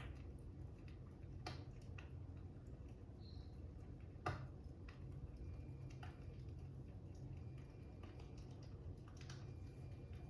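Fire crackling: a steady low rumble with a handful of sharp, irregularly spaced pops, the loudest about four seconds in.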